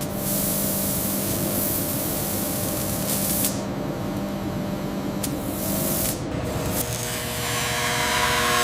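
Machinery running with a steady hiss over a low hum; about seven seconds in the hum gives way to higher steady tones and the hiss grows louder.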